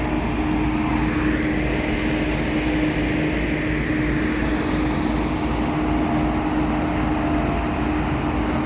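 Heavy diesel engine running steadily, with a constant steady hum over it.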